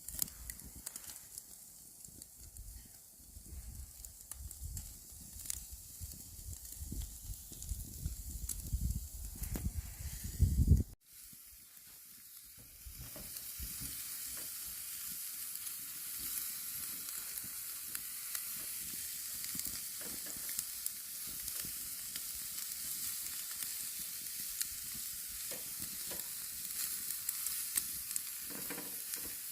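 Marinated pork sizzling on a wire grill grate over charcoal, a steady hiss with small crackles. In the first part, before an abrupt cut, there are low rumbling and knocking sounds.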